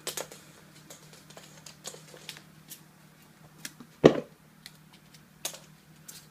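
A cat playing with a Da Bird feather wand toy and jumping at it: a string of scattered light clicks and taps, with one loud heavy thump about four seconds in, over a steady low hum.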